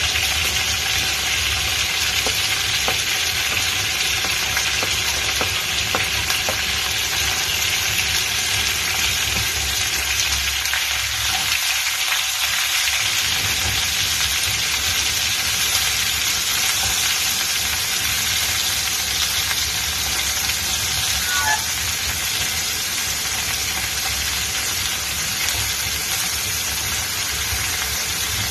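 Chicken pieces and sliced onions sizzling steadily in hot oil in a frying pan, with light scrapes and taps of a wooden spatula stirring them.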